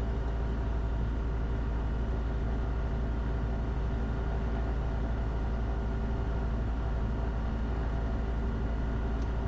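Light aircraft piston engine running steadily at low power on the ground, heard from inside the cockpit, with the main fuel pump now engaged and feeding it.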